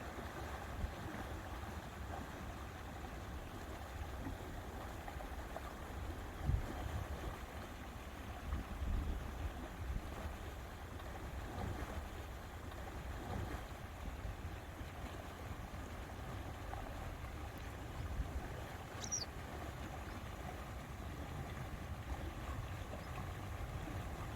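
Lakeside ambience: a steady wash of wind and water, with wind gusting on the microphone as a low rumble that swells now and then. One brief high chirp about 19 seconds in.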